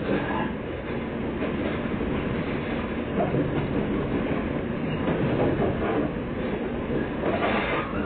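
Running noise of a JR 115-series electric train heard from inside the carriage: a steady rumble of wheels on the track through the station approach, with a brief higher, brighter swish near the end.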